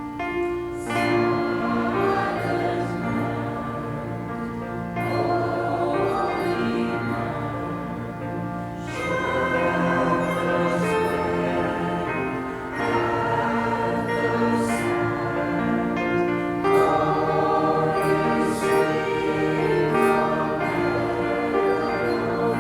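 A church choir singing in long, sustained phrases.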